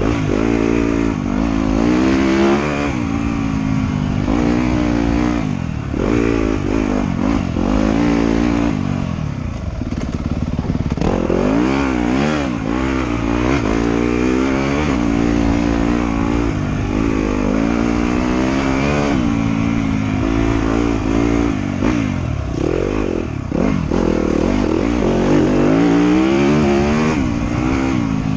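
Trail motorcycle engine being ridden, revving up and down over and over, its pitch climbing and dropping every second or two.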